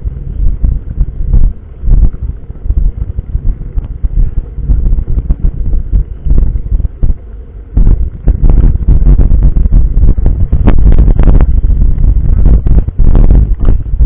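Wind buffeting the microphone of a camera on a moving mountain bike, with short knocks from the bike on the trail; it gets louder and rougher about eight seconds in.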